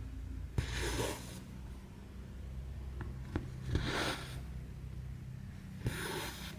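Needle and embroidery floss pulled through cross-stitch fabric: three short rasping swishes of thread drawn through the cloth, each starting with a small click as the needle pokes through, about every two to three seconds.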